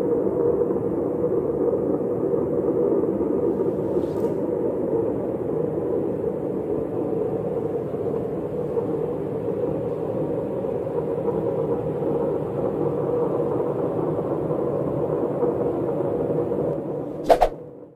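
A steady, low, rumbling drone that does not change, of the kind presented as a mysterious sound from the sky, with a short sharp sound near the end.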